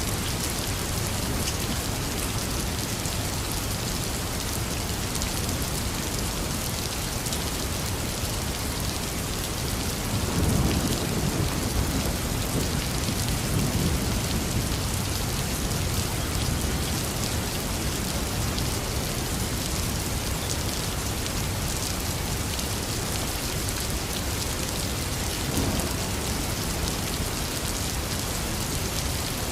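Heavy rain falling steadily. A low rumble of thunder swells about a third of the way in and dies away over a few seconds, and a shorter, fainter rumble comes near the end.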